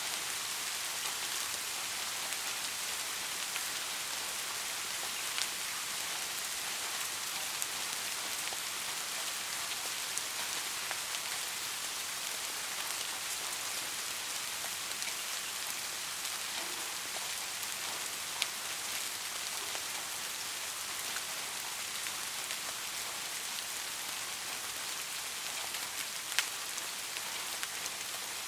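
Steady, gentle rain falling, an even hiss with scattered individual drops ticking, a few sharper ones now and then.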